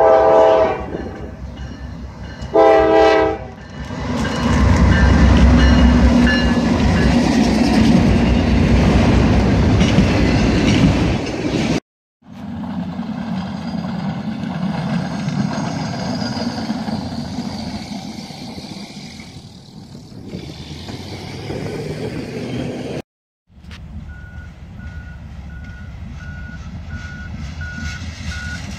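A diesel freight locomotive sounds its horn twice, then the train passes close by with a loud rumble of engine and wheels. After a cut there is a quieter, steady rumble. After another cut a rail work train approaches with a low rumble and a faint beep repeating at an even rate.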